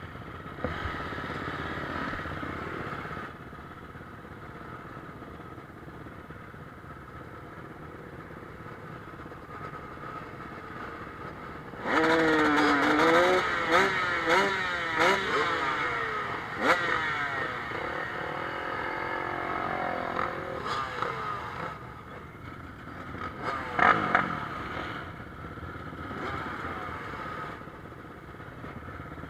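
Motocross bikes racing on a dirt track: a distant engine drone, then about twelve seconds in bikes pass close, their engines revving up and dropping back again and again through gear changes before fading away. Another bike comes close and revs briefly near the end.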